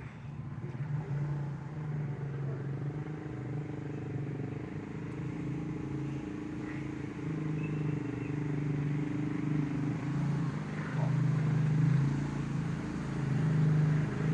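ATV engine running steadily, slowly growing louder. The owners suspect a fouled spark plug.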